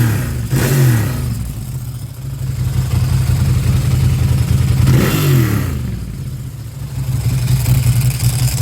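2004 Ducati Monster 1000 i.e. air-cooled L-twin on a G&G GP exhaust, idling and blipped twice. The first blip comes just after the start and the second about five seconds in, each falling back to idle.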